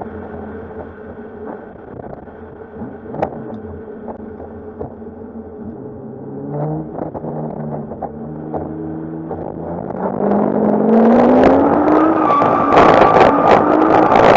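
Nissan Skyline R34's RB25 turbo straight-six engine revving during a drift run. It runs low and steady at first, then climbs in pitch in steps from about six seconds in. About eleven seconds in it turns much louder at high revs, with rapid crackling cut-outs.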